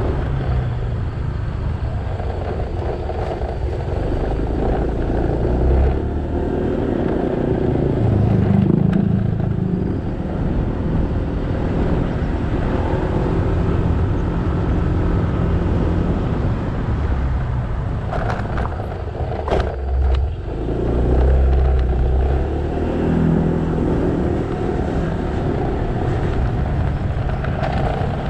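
Small motorbike engine running under way, with the engine note rising and falling several times as the rider speeds up and slows, mixed with road and traffic noise. About three-quarters of the way through, the engine eases off briefly and then picks up again.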